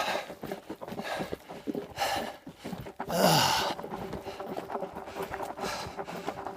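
A man panting hard from the strain of a steep uphill climb, with heavy breaths about once a second. About three seconds in comes a louder exhale with a falling groan.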